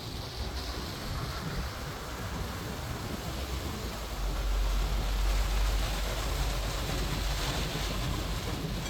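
Steady rain and street traffic noise, with wind rumbling on the microphone. The low rumble grows louder about four seconds in.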